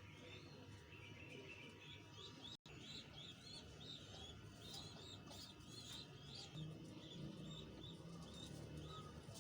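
Faint bird chirping: many short, quick high notes repeated in a busy run, thickest around the middle, with a brief break about a quarter of the way in.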